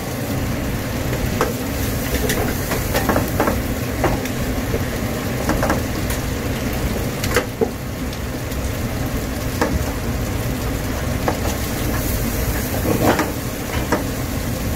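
Egg frying in a wok over a gas burner, sizzling, with a spatula scraping and knocking against the pan at irregular moments over a steady low rumble.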